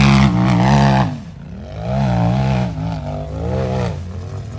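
Unlimited-class race UTV engine revving hard, dropping off about a second in, then revving up in two shorter bursts as the throttle is worked, fading near the end.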